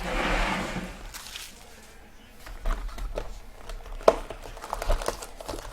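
Baseball card packs and cards being handled: wrapper rustling for about the first second, then scattered light clicks and taps as cards are flipped through.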